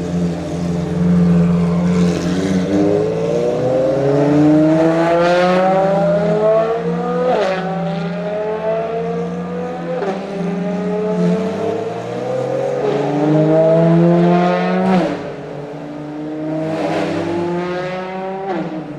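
Ferrari FXX K Evo's V12 accelerating hard through the gears: its pitch climbs steadily and drops sharply at each upshift, about five times.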